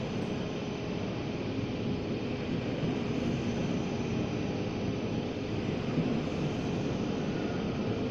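ICE train rolling slowly along the platform: a steady rumble of the passing carriages with a faint steady hum.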